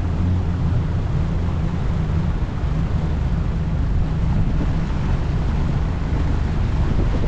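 Boat motor running steadily under way, with a low even drone and a rushing of wind and water.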